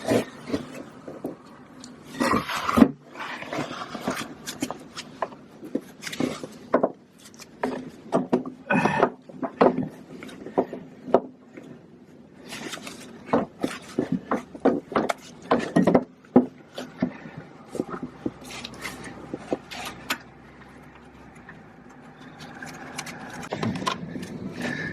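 Hand work on an excavator starter motor during cleaning and reassembly: irregular clicks, knocks and scraping of tools and metal parts, quieter for a few seconds near the end.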